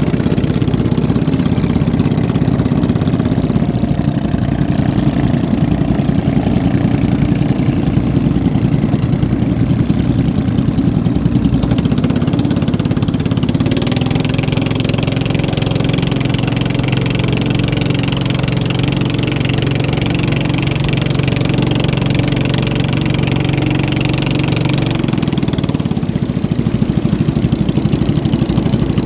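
Boat engine running steadily under way. Its note turns steadier, with added hiss, from about halfway through until shortly before the end.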